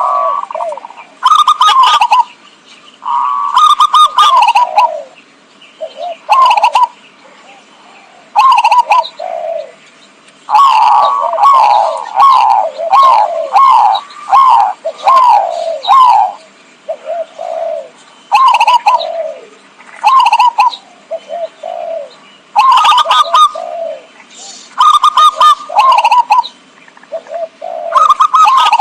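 Zebra dove (perkutut) cooing in repeated phrases of quick, falling notes with short pauses between them. This is a loud lure call, used to draw in wild zebra doves.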